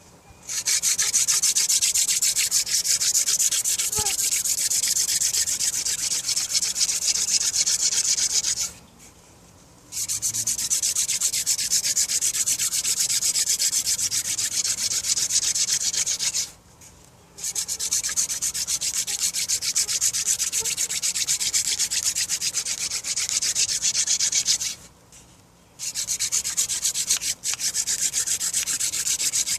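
Hand-drill fire spindle spun between the palms against a wooden hearth board, a fast, rough scraping in four long runs with brief breaks where the hands go back to the top of the spindle. The hearth is making brown dust, not yet the black dust that leads to an ember.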